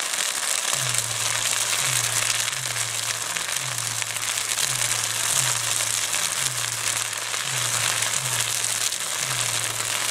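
Magnolia wood burning in a bonfire, crackling and hissing with a thick spray of tiny pops. Underneath runs a low bass line from music, repeating about once every second or so.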